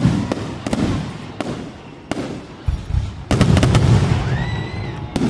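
Aerial fireworks shells bursting: a series of sharp bangs with low rumbling echo between them, and a rapid cluster of reports about three seconds in.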